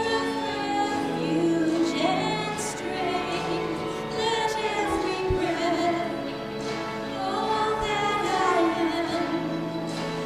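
Church music: singing in a classical style with vibrato, long held notes over a sustained instrumental accompaniment.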